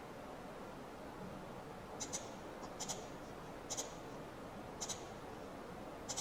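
Faint clicking of computer controls as the user works the program: five quick double clicks spread out over the few seconds, over a steady low hiss.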